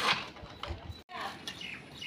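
A loud burst of mixed noise, cut off suddenly about a second in, followed by several short rising and falling bird chirps in quick succession.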